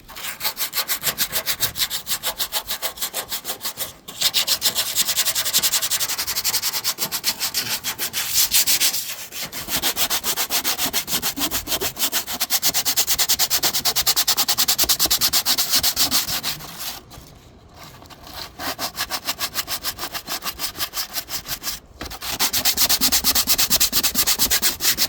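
Rusty sheet-metal refrigerator evaporator cover being sanded by hand in quick, even back-and-forth strokes, scraping off surface rust, with a few short pauses between bouts.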